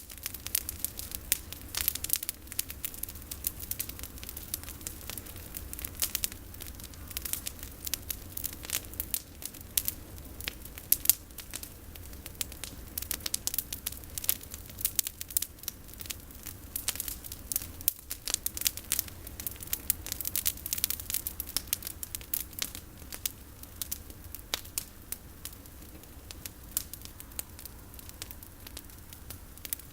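Campfire of olive-tree prunings crackling, with many irregular sharp snaps and pops over a low steady rumble.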